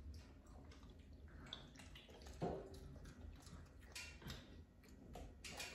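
Near silence with a few faint clicks and taps from food and plates being handled. A slightly louder tap comes about two and a half seconds in, and another pair around four seconds.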